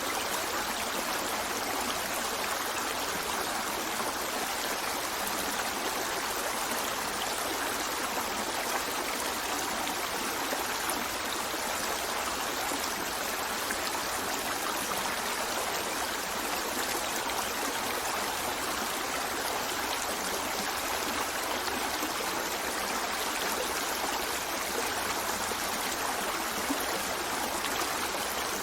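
Water of a stream running steadily, an even unbroken flow with no change in level.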